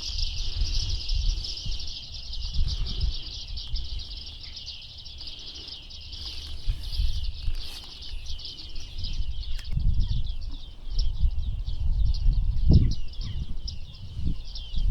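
A dense, unbroken chorus of high-pitched bird chirps, with gusts of wind rumbling on the microphone.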